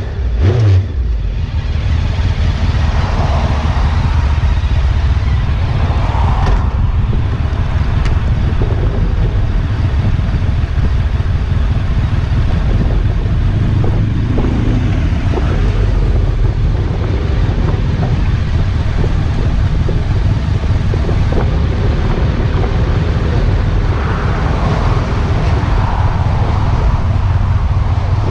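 A motorcycle on the move: the engine drones steadily under a heavy, continuous rumble of wind buffeting the microphone.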